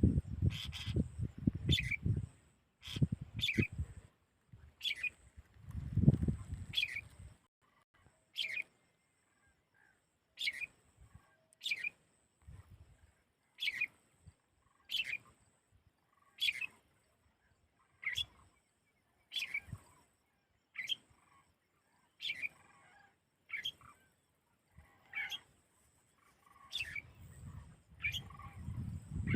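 A small bird calling over and over, each call a short note sliding downward, about one every second to second and a half. A low rumble sits under the first few seconds and returns near the end.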